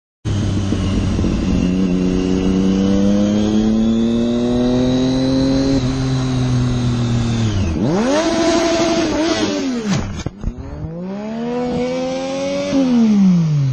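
Motorcycle engine pulling with its pitch climbing slowly, then dropping off. It revs up twice more, each time holding briefly before falling away.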